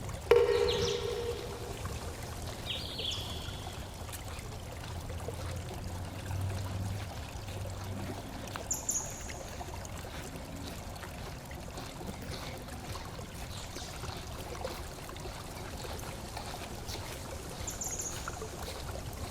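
Steady running water of a small forest stream. Just after the start, a loud pitched call or squeak lasts about a second, and a few brief high chirps come later.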